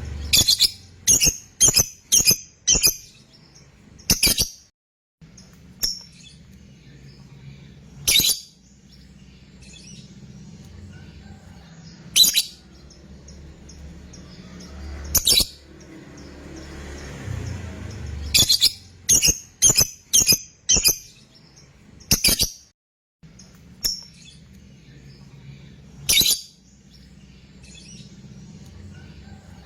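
Fighter lovebird calling: short, high calls, a quick run of five or six near the start and again about two-thirds through, with single calls every few seconds between. A faint low hum lies beneath.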